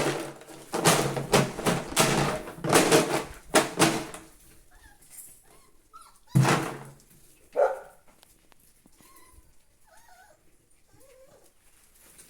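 Golden retriever puppies whimpering and squeaking, with a run of loud, short sudden sounds over the first four seconds and one more about six seconds in.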